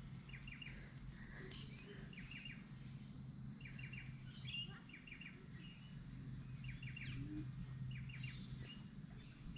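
Faint birdsong: short runs of three to five quick chirps, repeated every second or so, over a low steady hum.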